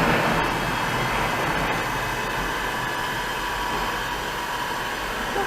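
Powerhouse 8-inch, half-horsepower bench grinder coasting down after being switched off, its motor and wheels whirring and slowly fading as they lose speed under their own momentum.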